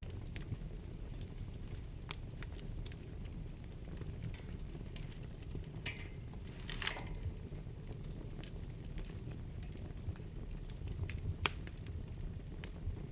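Wood fire burning in a fireplace: a steady low rumble of flames with scattered sharp crackles and pops. A brief hiss falls in pitch just past halfway, and the sharpest pop comes about two seconds before the end.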